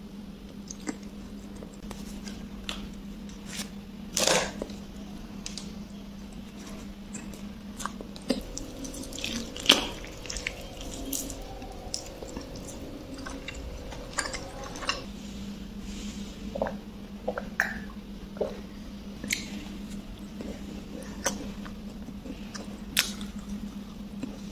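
A person eating close to the microphone: chewing and biting with wet, squishy mouth sounds and sharp crunches and clicks at irregular intervals, over a steady low hum. Near the end a cookie is bitten.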